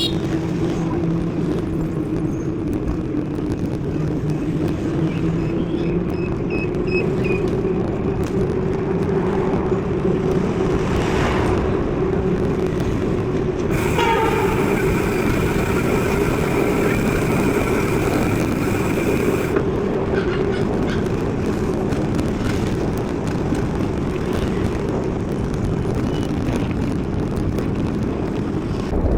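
Steady riding noise of a mountain bike heard from a chest-mounted action camera: wind on the microphone and tyre rumble with a steady hum. About halfway through, a high-pitched squeal holds for about five seconds, then stops.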